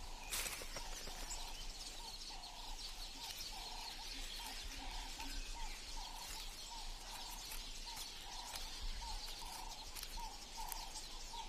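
Forest ambience: a bird repeating one short, low-pitched note about twice a second, over a steady high hiss.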